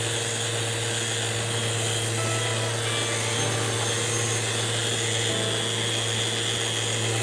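A handheld power tool's electric motor running steadily at one constant speed, with a low hum and a high whine.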